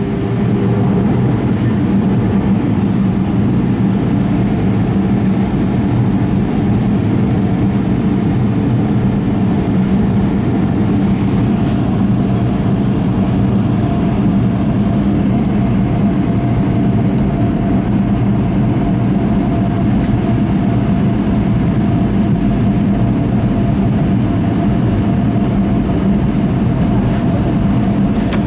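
Boeing 737-500's CFM56 jet engines running steadily at low power, heard from inside the cabin as a constant low drone, with a faint steady whine joining about twelve seconds in.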